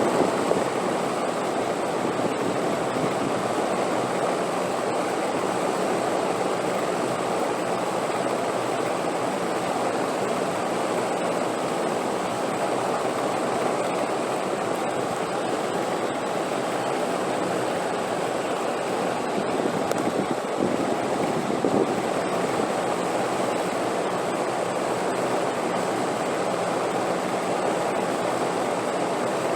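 Steady rushing wind, an even unbroken noise with no gusts or pauses.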